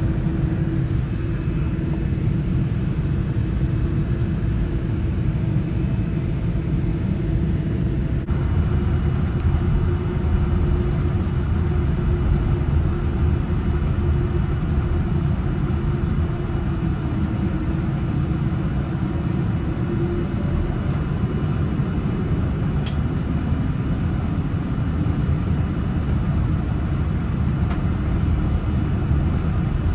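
Steady low rumble of a Boeing 787-9 airliner heard from inside the passenger cabin. It gets heavier and deeper from about eight seconds in.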